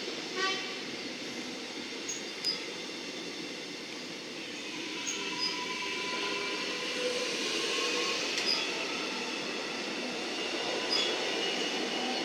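Metro Melbourne suburban electric train running through a station: a steady sound of wheels on rail, with faint thin wheel-squeal tones and a few light clicks.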